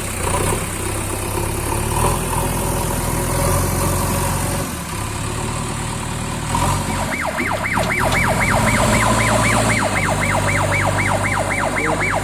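A JCB 3DX backhoe loader's diesel engine runs steadily. Past the middle, a loud warbling siren-like alarm starts over it, its pitch sweeping up and down about four times a second.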